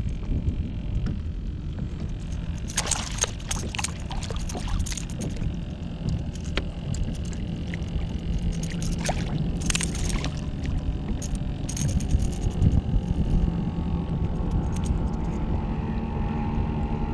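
Steady low rumble of wind and water around a kayak, broken by several short hissing bursts as a small redfish is handled aboard. From about ten seconds in, a faint low hum with a steady pitch joins in.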